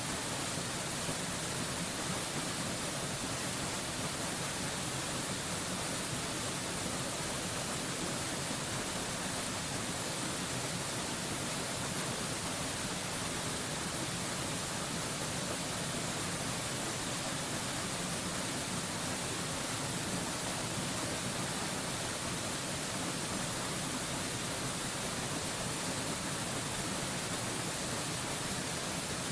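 Steady rushing of a mountain waterfall: an even, unbroken hiss that does not change.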